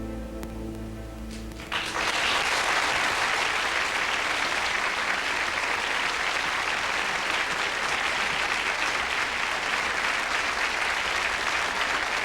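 An orchestra's final sustained chord dies away, and about two seconds in a large concert audience breaks into steady applause.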